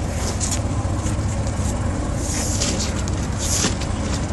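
Steady low drone of a fishing boat's diesel engine running close by, with short swells of hiss about halfway through and again near the end.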